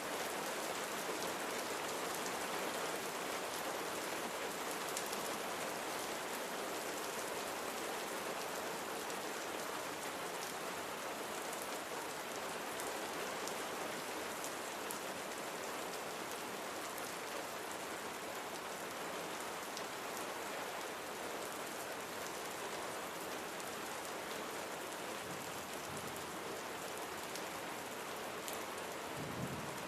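Steady rain falling, with a dense even patter and scattered individual drop ticks.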